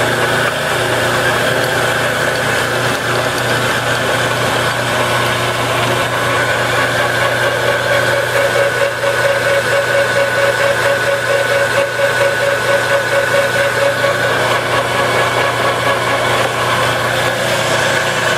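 Enco 9" x 20" bench lathe running steadily under power: an even motor hum with a high whine, and a pulsing mid-pitched tone through the middle stretch.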